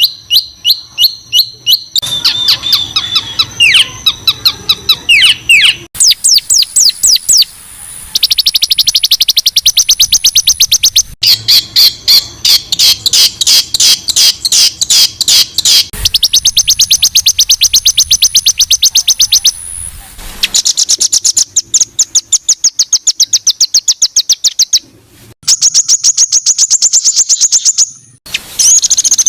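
Loud songbird song of harsh, high-pitched repeated notes, rapid trills of about eight notes a second, in runs of a few seconds with abrupt cuts between them: the 'rough shot' phrases used as tutor song for competition birds.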